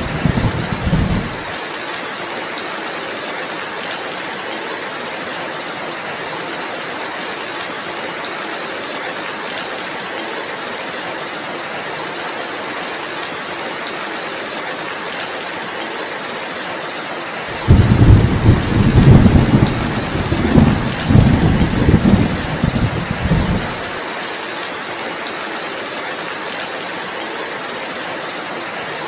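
Heavy rain falling steadily, with thunder rumbling at the start and again for about six seconds beginning near the middle.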